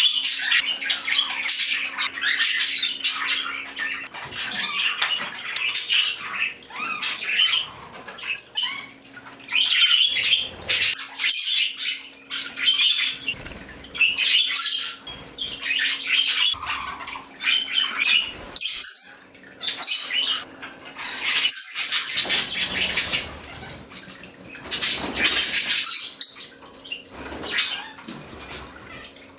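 A room full of pet parakeets and small parrots chirping and squawking non-stop, calls overlapping, with a faint steady hum underneath.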